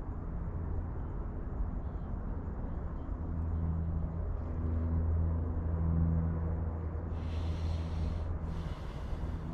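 Low, steady engine drone that swells about halfway through and then eases off, with two short bursts of hiss near the end.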